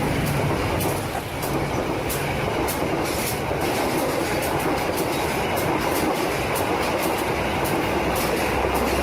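Train running on rails: a steady rumble with frequent sharp clacks of the wheels.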